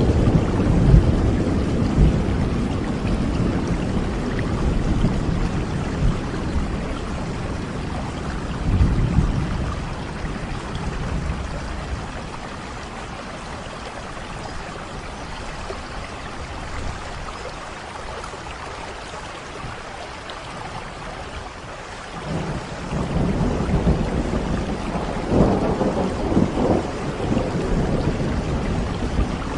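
Steady rain with rolling thunder. The deep rumble fades over the first ten seconds or so, leaving the rain alone, then swells again about twenty-two seconds in.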